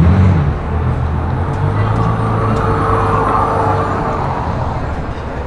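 Road traffic: a motor vehicle's engine running, with a vehicle passing close by around the middle.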